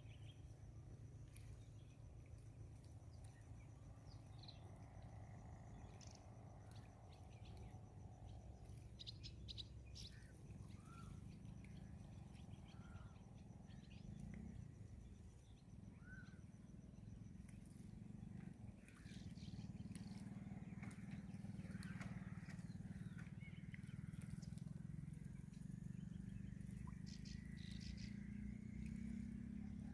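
Faint outdoor ambience: a steady low rumble with scattered short bird chirps, and a faint high steady tone during the first third.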